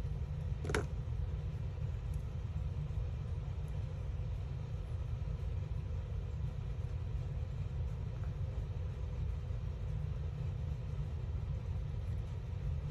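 Steady low background rumble with a faint hum, and a single short click about a second in.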